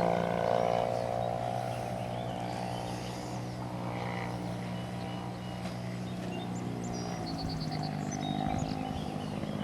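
Engine and propeller of a 1/3-scale radio-controlled Cessna 182 droning steadily in flight, the pitch shifting near the start and again about seven seconds in.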